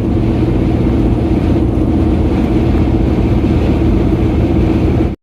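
A motor vehicle running steadily: a constant low rumble with a steady droning hum, without change in pitch.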